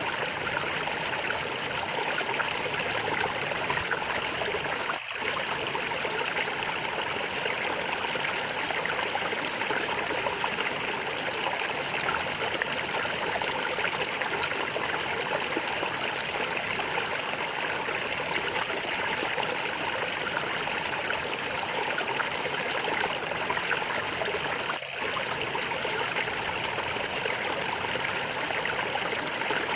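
Stream water gurgling and trickling steadily.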